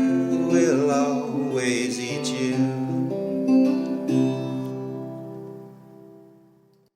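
End of a song: a singing voice holds the last note over acoustic guitar. Then the final guitar chord rings on, fades away and stops just before seven seconds in.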